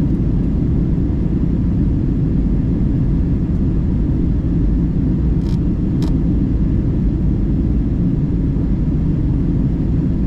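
Steady low rumble of airliner cabin noise during the descent, the engines and airflow heard from inside the cabin. Two faint clicks come just past the middle.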